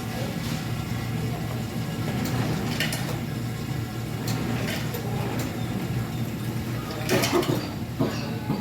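Plastic spoon scraping and clicking in a McFlurry cup while someone eats, over a steady low hum; the loudest scrapes come about seven seconds in.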